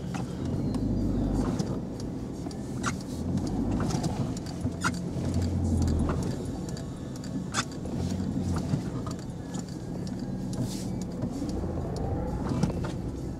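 Car engine running at low speed, heard from inside the cabin as the car moves slowly, with a few sharp clicks scattered through, and the engine pitch rising near the end.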